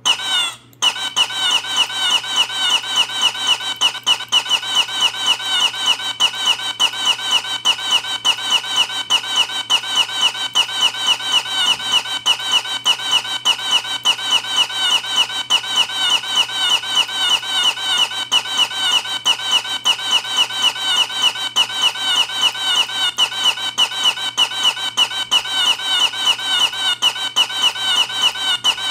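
A short, high-pitched squeaky chirp looped over and over, several times a second, as a comic sound effect.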